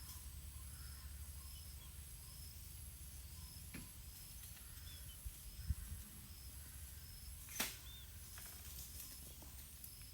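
Faint background ambience: a steady low rumble, a constant thin high tone and short high pulses repeating a little faster than once a second, with two sharp clicks about halfway and three-quarters of the way through.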